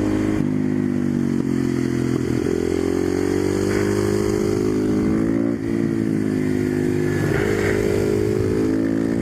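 Husqvarna 510SM supermoto's single-cylinder four-stroke engine pulling under acceleration. Its pitch climbs, drops at a gear change about halfway through, then climbs again.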